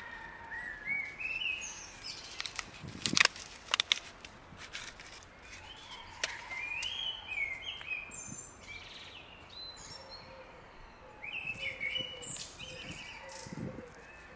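Birds chirping, a short rising phrase of song repeating every five seconds or so. Two sharp knocks about three seconds in.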